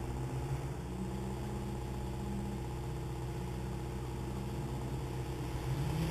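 Rally car engine heard at a distance through the trees, a steady drone whose pitch steps up and down with gear changes, growing a little louder near the end.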